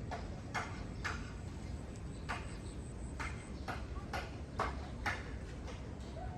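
Footsteps on a hard path, sharp irregular clicks about every half second to second, over a steady low rumble.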